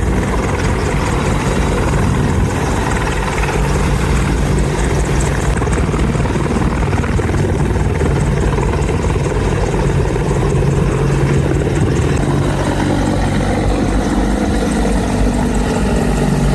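AH-64 Apache attack helicopter running close by: a loud, steady sound of its main rotor and twin turbine engines.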